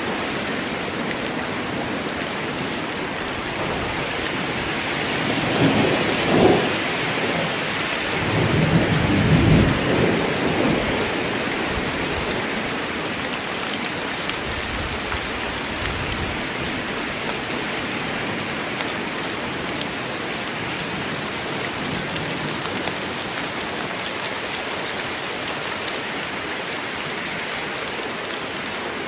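Steady rain falling in a forest, with rolls of thunder rumbling in the low end from about five seconds in, the louder roll peaking around nine to ten seconds before fading back to rain alone.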